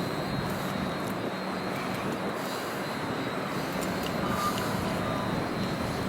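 Steady rumble and hum of a train, with a few faint clicks.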